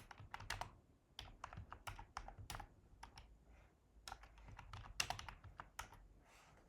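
Computer keyboard typing: a run of irregular keystrokes that thin out near the end.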